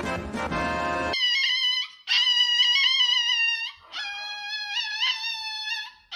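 Dog howling: three long, high, wavering howls with short breaks between them, following about a second of music.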